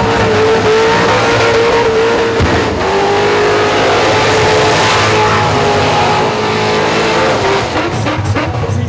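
Supercharged V8 of a Holden Commodore ute held at high revs in a burnout, with the rear tyres spinning. The revs dip briefly about three seconds in and again near the end.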